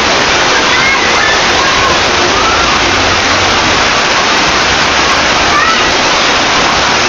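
Heavy tropical rain pouring down, a loud steady hiss of rain and running water. Faint distant voices come through the rain now and then.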